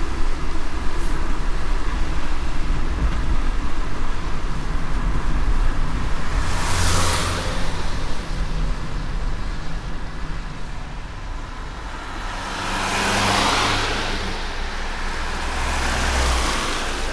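Car driving on a wet road in light rain: a steady low road rumble under a soft hiss, with three swelling tyre hisses on wet pavement, about a third of the way in and twice near the end.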